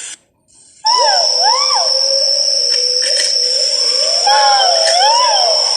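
Great argus pheasant calls: repeated arching, whistled notes that overlap one another. There is a short drop-out just after the start, and a steady high-pitched whine runs under the calls from about a second in.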